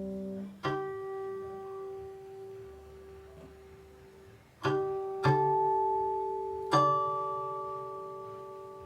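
Guqin (seven-string Chinese zither) played solo, slowly: four single plucked notes, spaced unevenly, each ringing on and fading slowly.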